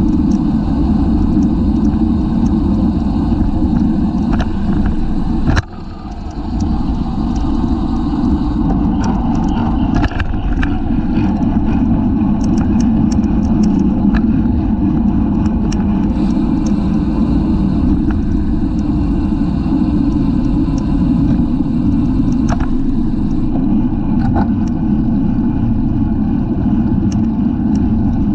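Wind rushing over a bicycle-mounted camera's microphone while riding at race speed, a loud steady low rumble with scattered light ticks from the bike. There is a sharp click about five and a half seconds in, followed by a brief drop in loudness.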